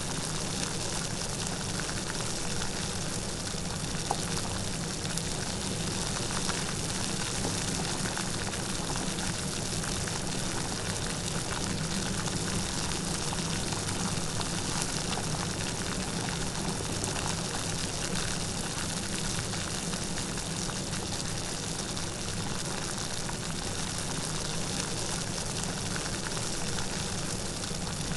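Steady light rain falling, an even hiss of many small drops pattering.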